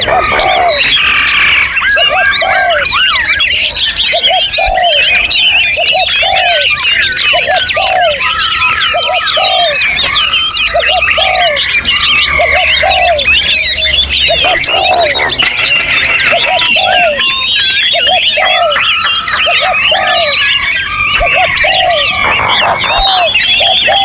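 Many captive songbirds singing at once in an aviary: a dense, unbroken chorus of chirps, trills and whistles, with a lower note repeated over and over beneath it.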